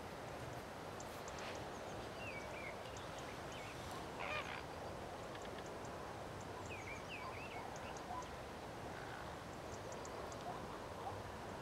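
Birds calling in short, bent honks over a steady outdoor hiss: a few small groups of calls several seconds apart, the clearest about four seconds in.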